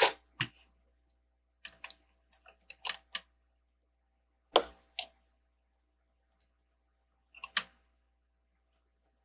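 Plastic Lego bricks clicking and tapping as they are handled and pressed together, a dozen or so sharp irregular clicks with quiet gaps between them.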